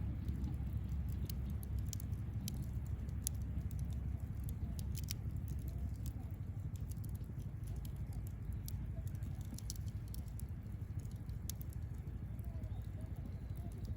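Wood campfire burning: scattered sharp crackles and pops of the burning wood over a steady low rumble.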